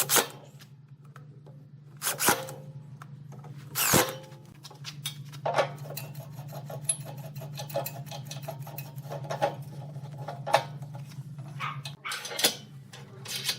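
Hand work on wood in a workshop: irregular knocks and quick scratchy clicks, with a few louder knocks a couple of seconds apart, over a steady low machine hum.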